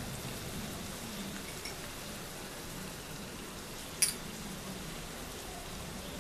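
Spice paste and onions in oil with a little water, sizzling and bubbling steadily in a frying pan, with one sharp click about four seconds in.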